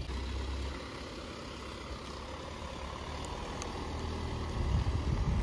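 Car engine idling, then the car pulling away, with a louder low rumble from about four and a half seconds in.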